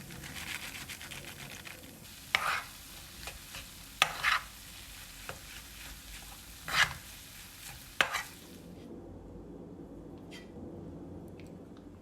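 Food sizzling in a frying pan while a cooking utensil stirs it, with about five short sharp scrapes against the pan. The sizzling stops about nine seconds in.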